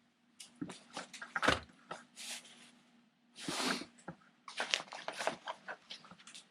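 Motorcycle gloves being handled: irregular rustles and small clicks of leather and fabric, with a longer ripping rasp about three and a half seconds in.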